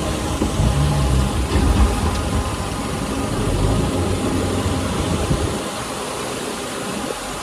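Heavy diesel engine of earthmoving machinery running with a low rumble, which drops away sharply about five and a half seconds in.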